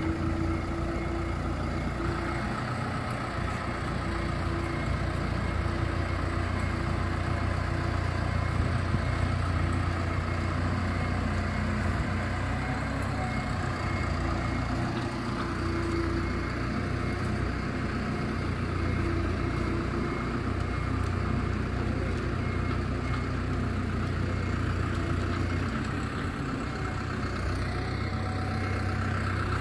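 An engine running steadily at idle, with a faint steady whine above it.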